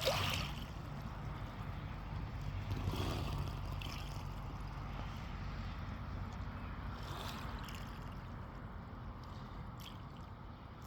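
Calm sea water lapping and sloshing in gentle swells, a few seconds apart, over a steady low rumble.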